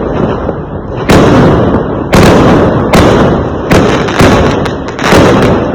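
Fireworks going off: a rapid series of loud bangs, about five, each trailing off into rumble and crackle that fills the gaps between them.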